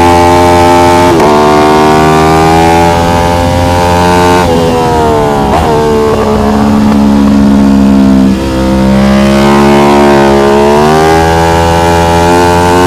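An Aprilia RS660 Trofeo's parallel-twin engine at full race effort on track. It climbs in revs through the gears with quick upshifts, including one about a second in. Around the middle it falls away under braking and downshifts, holds steadier, then pulls hard again near the end.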